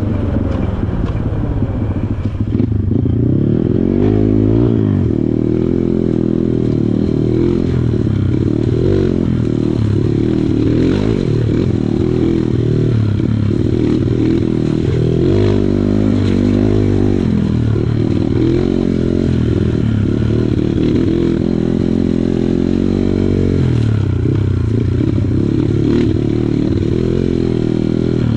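Kawasaki KLX140 dirt bike's single-cylinder four-stroke engine running on a trail ride, its revs rising and falling every second or two as the throttle is worked.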